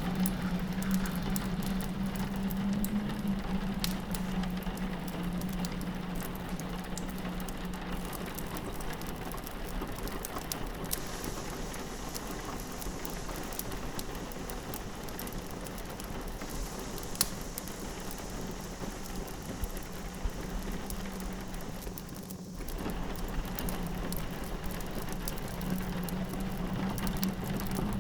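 Rain pattering against a window, mixed with a crackling wood fire whose sharp pops are scattered throughout, over a low steady drone of wind. The mix briefly drops away about three-quarters of the way through.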